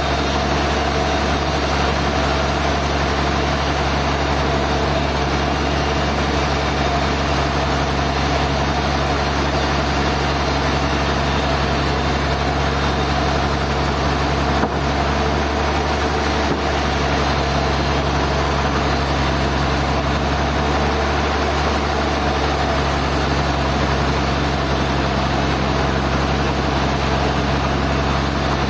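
Sawmill machinery running steadily with a constant hum and a single brief knock about halfway through.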